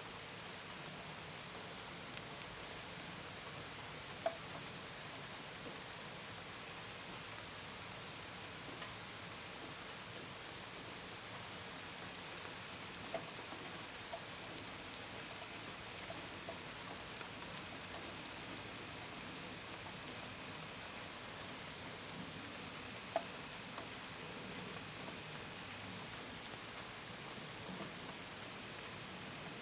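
Steady gentle rain, with scattered single drops tapping sharply against a window and gutters, the loudest about 4, 17 and 23 seconds in. Crickets chirp in a steady high band throughout.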